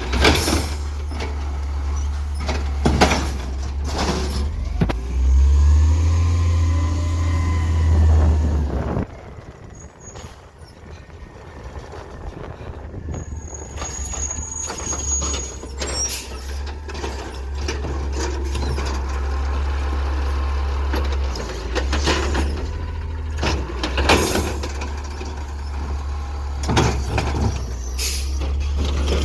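Garbage truck engine running heavily, with repeated sharp clanks and bangs. The engine noise drops away about nine seconds in, then builds back up.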